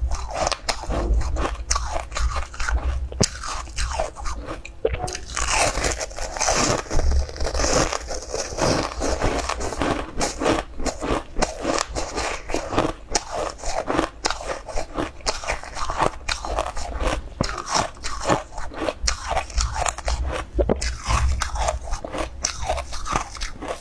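Close-miked biting and chewing of a crunchy food, with many sharp crunches one after another and a denser crunching stretch in the middle.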